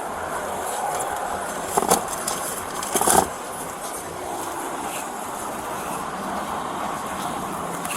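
Steady rushing background noise, like traffic or wind outdoors. Two short knocks or rustles come about two and three seconds in.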